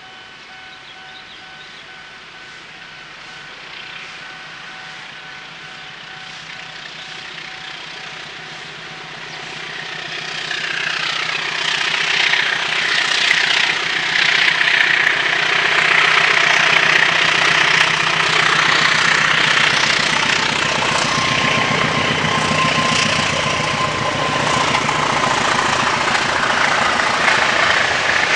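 A train approaching, growing louder over about ten seconds, then passing close by with a steady loud rush and clatter of wheels on the rails.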